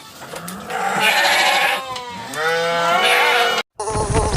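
Two long, wavering bleats from a farm animal, one after the other. The sound then cuts to silence for a moment, and electronic music starts near the end.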